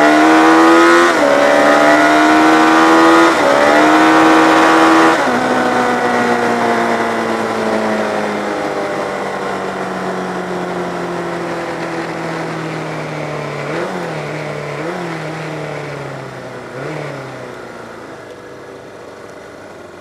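Racing motorcycle engine accelerating hard through the gears, its revs dropping sharply at three upshifts in the first five seconds. The revs then fall slowly as it slows, with three quick throttle blips on downshifts near the end, and the sound fades.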